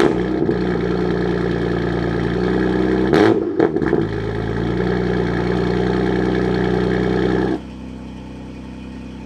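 BMW M3/M4 S55 twin-turbo inline-six on a cold start, running at a high fast idle through a straight-through titanium equal-length valved exhaust, with a brief surge about three seconds in. Near the end the sound drops sharply to a much quieter, more muffled idle, the sound with the exhaust valves closed.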